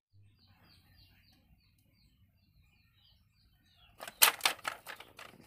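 A faint bird call, a short falling chirp repeated about three times a second; about four seconds in, a loud rattle of sharp clicks lasting about a second and a half.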